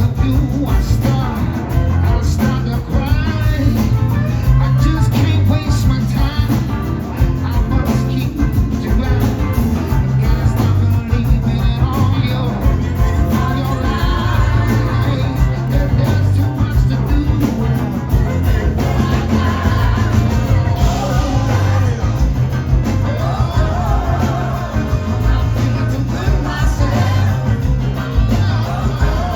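Live rock band playing loud and without a break, with singing and guitar over a strong bass line.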